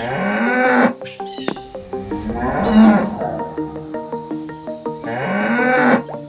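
Cow mooing three times, each call rising in pitch and lasting under a second, about two and a half seconds apart, over light background music.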